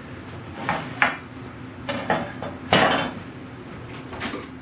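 Metal hand tools being handled on a workbench: several separate clinks and clatters as they are picked up and set down.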